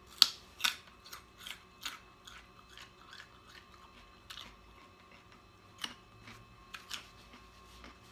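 A person chewing soft leftover fried chicken close to the microphone: a run of sharp, irregular mouth clicks and smacks, loudest in the first two seconds and sparser toward the end.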